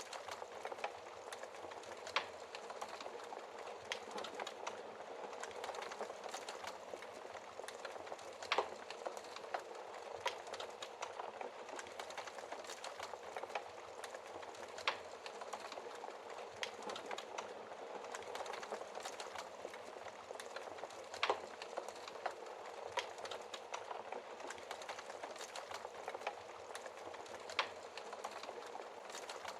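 Wood fire burning in a fireplace: a steady crackle with frequent small clicks and a handful of louder pops from the burning logs.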